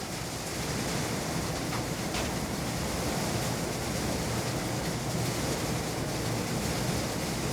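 Heavy rain pouring down, a steady even rush with no let-up.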